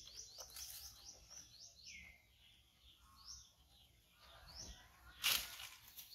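Birds chirping outdoors: a quick run of short, high, falling chirps at first, then scattered calls, including a lower downward-sweeping call about two seconds in. A short, loud burst of noise about five seconds in.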